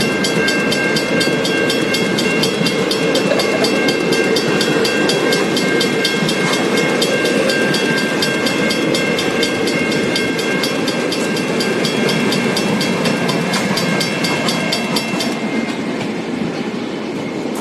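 A train hauled by three locomotives runs past at close range, with a steady rumble and wheel clatter. Over it a Western Cullen Hayes mechanical level-crossing bell rings in rapid, even strokes, then stops about fifteen seconds in.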